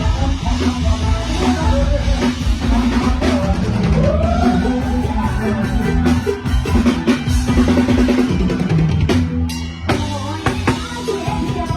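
Live mor lam band playing at full volume, the drum kit driving the beat with kick, snare and rimshots over bass and keyboard.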